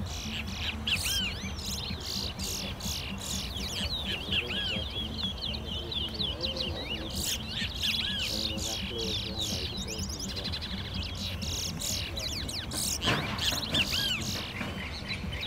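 Caged towa-towa finches singing in a song-racing contest: quick, repeated arched chirps that run on in strings, with a steady low hum beneath and a sharp click about thirteen seconds in.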